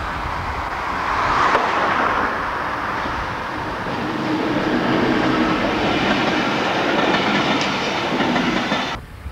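Network SouthEast first-generation electric multiple unit running past the crossing, a loud steady train noise that cuts off abruptly near the end.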